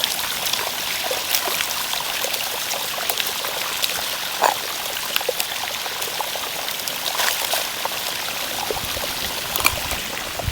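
Freshwater spring water running steadily, a constant trickling flow with a few small knocks and clicks scattered through it.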